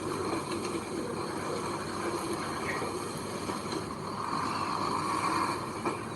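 Heavy machinery engine running steadily.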